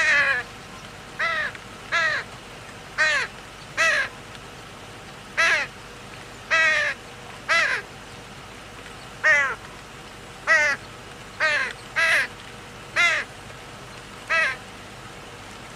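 A crow cawing repeatedly: about fourteen short, harsh caws, each falling in pitch, coming roughly one a second at uneven intervals.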